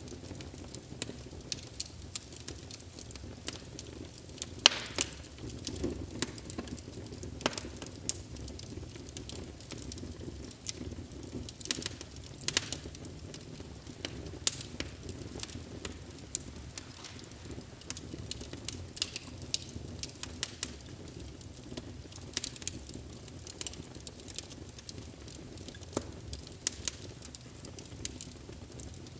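Wood fire in a fireplace crackling, with frequent irregular sharp pops over a low steady rumble of the flames.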